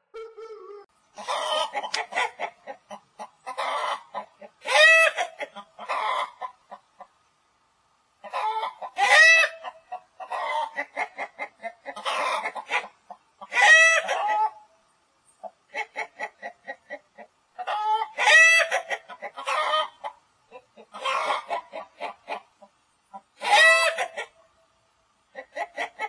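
Hens clucking and cackling: runs of quick clucks, each building to a loud squawk, repeating about every four to five seconds.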